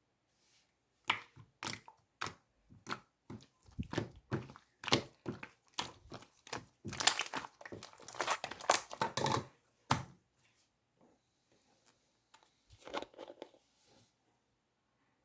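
Marbled slime being squished and pressed by hand, giving a run of sharp crackling and popping sounds that grows densest after several seconds, then stops, with a few more pops a little later.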